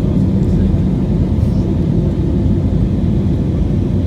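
Airbus A320neo cabin noise in flight: the engines and airflow make a steady, loud, low rumble heard from inside the passenger cabin.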